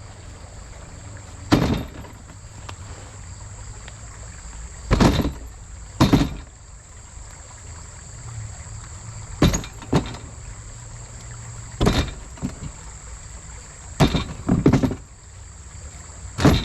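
A series of about nine short, heavy thuds at irregular intervals over a low, steady engine hum.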